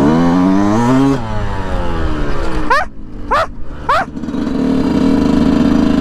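Yamaha YZ125 two-stroke dirt bike engine revving up for about a second, then dropping off as the throttle closes. Three quick throttle blips follow, then it runs steadily.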